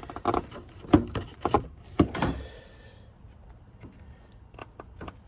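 A series of sharp knocks and clicks, the loudest about one and two seconds in, followed by a brief rattle and then lighter ticks.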